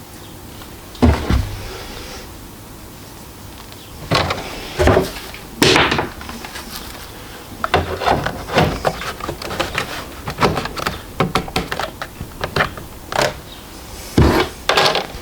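Handling noise from setting up the printer: a thud about a second in, a few clunks, then a quick run of small clicks and knocks, and another thud near the end.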